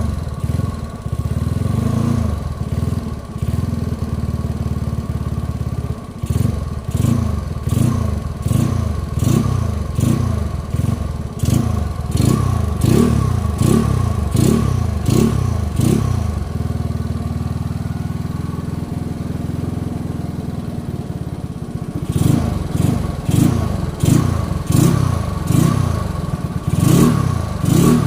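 Yamaha Mio scooter's single-cylinder engine, bored up to 130 cc spec, running through a Hitech Racing aftermarket exhaust. It idles, is revved in short throttle blips about once a second, settles back to idle, and is blipped again near the end.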